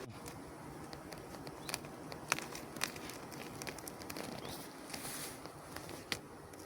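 Scattered light clicks, taps and crackles from hands and a tool working wooden beehive parts and frames, a few sharper knocks among them.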